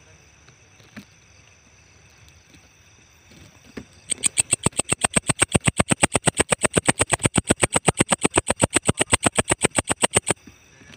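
Walang ecek bush cricket calling: a rapid, even train of dry ticks, about seven or eight a second, starting about four seconds in and stopping abruptly near the end. A faint steady high-pitched hum lies under it.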